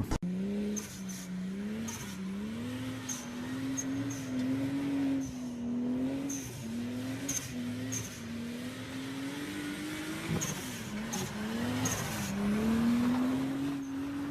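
Car engine revving, its pitch climbing and dropping again and again in short pulls, with faint sharp clicks.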